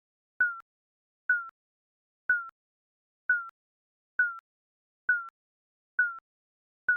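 Digital countdown timer beeping once a second: eight short electronic beeps, each a single tone that dips slightly in pitch.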